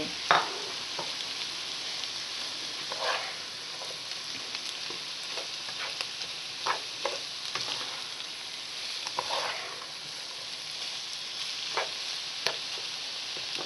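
Onion, carrot and salted green tomatoes sizzling in oil in a frying pan, with a spatula stirring and scraping the pan in short, irregular strokes.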